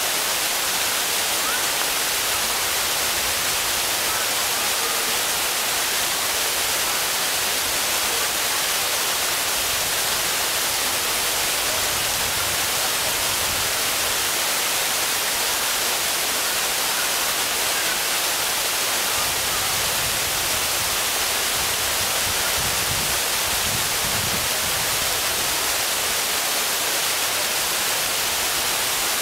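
Waterfall: falling water rushing in a steady, even hiss that does not let up.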